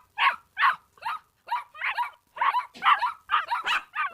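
Puppy yipping and barking in a quick string of short, high calls, about three a second.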